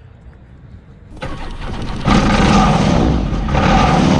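Engine of a Revo weight-shift trike light-sport aircraft starting up. It turns over about a second in, catches about two seconds in, and runs loudly with its propeller, stepping up a little near the end.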